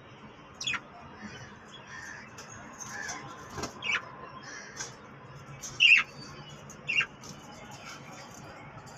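Pet budgies and parrots calling: four loud, sharp squawks that drop quickly in pitch, over a steady soft twittering chatter.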